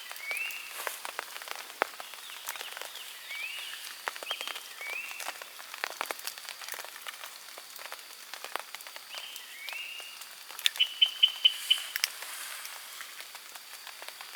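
Rain dripping, with scattered drops tapping sharply. A frog gives a short rising call again and again through it. A little after the middle comes a quick run of about six louder notes.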